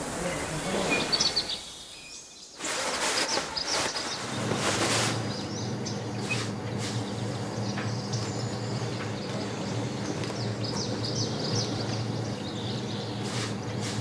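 Small birds chirping now and then over steady ambient noise. A few seconds in, a loud rush of noise starts, and after it a steady low hum lies under everything.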